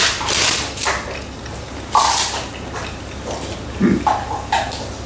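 Crisp-crusted focaccia being bitten and chewed, crunching in several short, irregular bursts.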